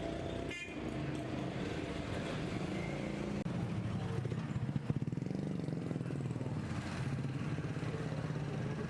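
An engine running steadily, with a fast even pulsing about halfway through.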